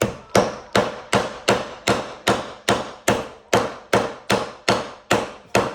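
Hammer striking a nail into wood: about fifteen hard, evenly spaced blows, two to three a second. The nail won't go in.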